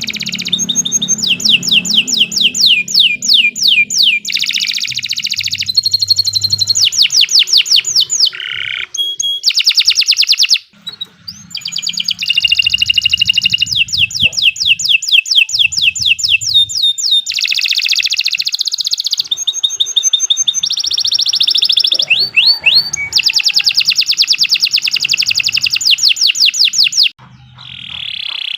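Canary singing a long, loud song of rapid high trills and rolls, each a fast run of repeated notes. The song breaks off briefly about ten seconds in and again near the end.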